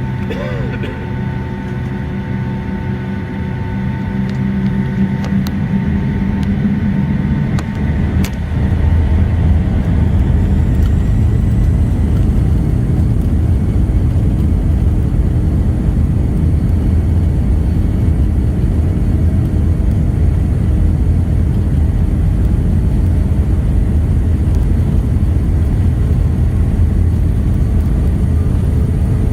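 Boeing 757-200 jet engines heard from the passenger cabin, spooling up for takeoff: held engine tones and a swelling rumble grow louder over the first eight seconds or so, then give way to a loud, steady low rumble as the takeoff roll runs on.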